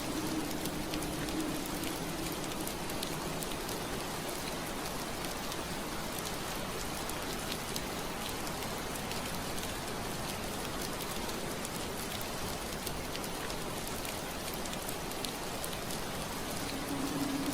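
Steady rain pattering on window glass: an even hiss with scattered fine drop ticks. A low steady hum sits under it, fading out a second or so in and coming back near the end.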